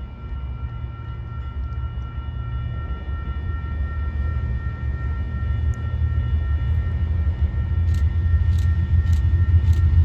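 Diesel freight train approaching, its low rumble growing steadily louder, with a faint steady high whine throughout. Near the end, sharp clicks of wheels over rail joints begin as it draws close.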